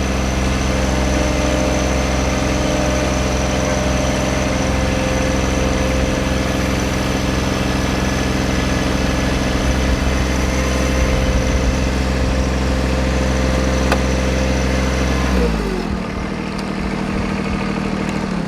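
A tractor engine running steadily at a constant speed; near the end its pitch falls and it winds down, leaving a fainter hiss.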